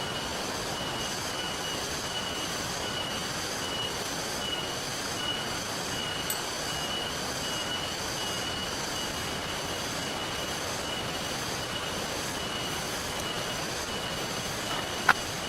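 Steady rain and river water hissing evenly, with a high-pitched tone pulsing about twice a second over it. There is a single sharp snap near the end.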